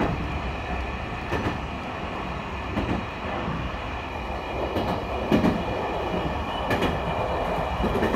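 E721-series electric train running, heard from inside the car: a steady rumble with six or so irregularly spaced clacks as the wheels pass over rail joints.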